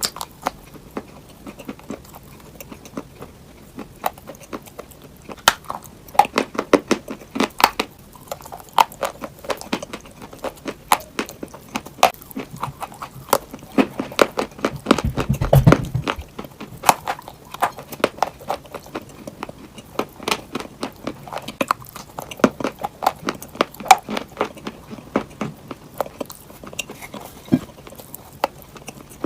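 Crunchy chalk and clay being bitten and chewed: a dense run of sharp cracks and crunches, with a dull low thump about fifteen seconds in.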